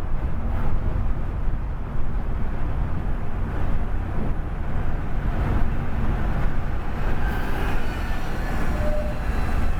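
Scania K410 coach under way: a steady low rumble of engine and road noise.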